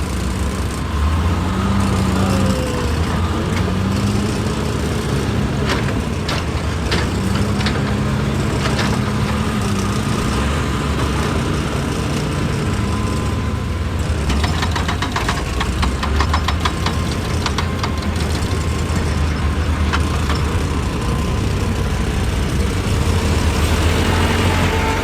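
Excavator's diesel engine running under working load, its pitch rising and falling, with scattered knocks and a stretch of rapid clattering from rock and metal about halfway through.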